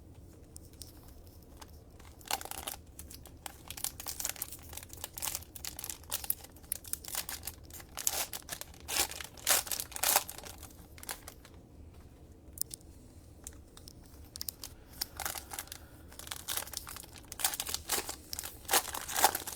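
Trading card pack wrappers being torn open and crinkled by hand, in irregular bursts of crackling with short pauses between them.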